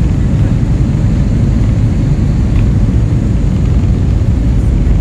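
Airliner cabin during the takeoff roll: a loud, steady low rumble of the jet engines at takeoff power and the aircraft rolling down the runway.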